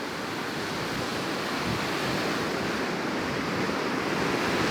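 Ocean surf washing against the shore, a steady rush of noise that swells gradually.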